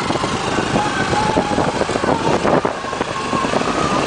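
Gusty wind buffeting the microphone outdoors, a dense rushing noise with irregular thumps, with faint distant calls or voices drifting through.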